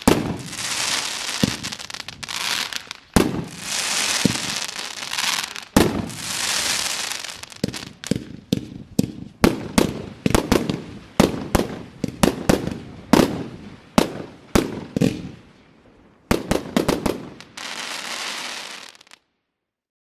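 Fireworks display: shell bursts, each followed by a long crackling sizzle, then a quick run of sharp bangs and a last crackle, before the sound cuts off abruptly near the end.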